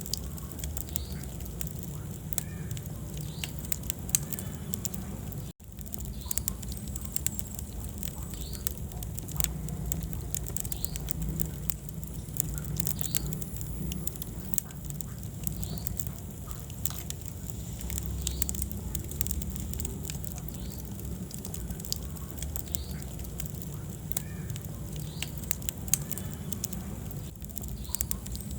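Wood fire burning in a fireplace: steady crackling with many sharp pops over a low rumble. The sound cuts out for a moment about five and a half seconds in.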